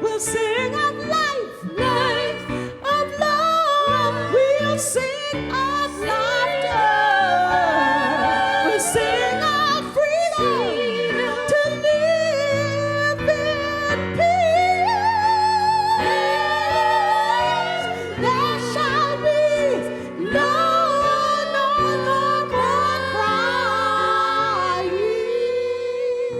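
A woman singing gospel with heavy vibrato and sweeping runs over sustained keyboard chords, settling into a long held note near the end.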